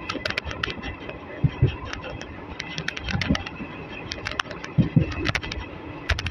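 Running noise of an Indian Railways passenger train coach on the move: a steady rumble with frequent irregular clicks and rattles, and a few heavier thumps.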